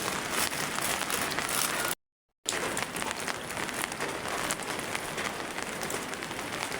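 Heavy rain falling, a steady hiss with fine pattering of drops, broken by a short dead-silent gap about two seconds in.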